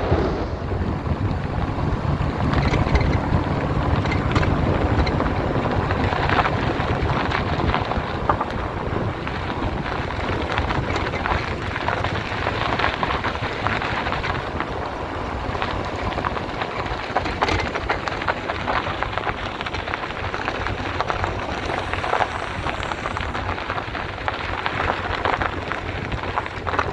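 Steady rushing of falling water, with wind buffeting the microphone.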